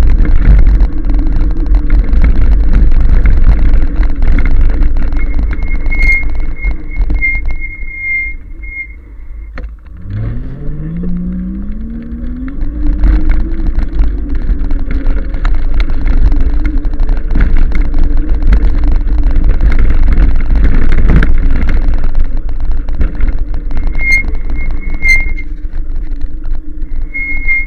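Wind rumbling on the microphone of a moving 1000 W e-bike. About ten seconds in the rumble eases, then the electric motor's whine rises steadily in pitch as the bike speeds up, before levelling off. A thin high whine comes and goes twice.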